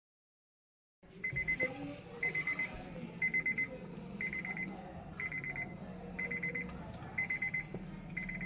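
Electronic beeper sounding a quick, trilling high beep of about half a second, repeated once a second like an alarm clock, over a low steady hum. It starts about a second in, after a moment of dead silence.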